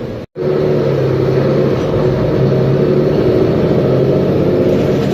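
Mercedes-Benz Conecto G articulated bus's OM457LA inline-six diesel engine running at a steady pitch. The sound cuts out for a moment near the start, then resumes slightly louder.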